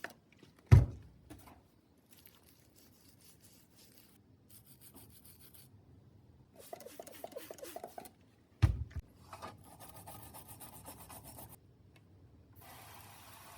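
Rubbing and scrubbing of old bicycle bottom bracket parts being cleaned of dirt and old grease, in quick strokes in places. Two sharp knocks, one near the start and one just past the middle, are the loudest sounds.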